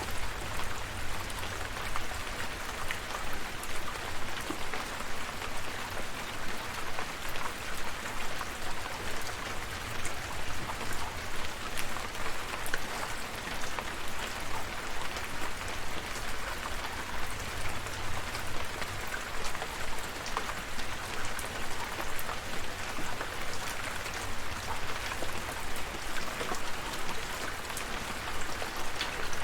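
Steady rain falling, with many separate drops pattering on a surface over an even hiss and a low rumble underneath.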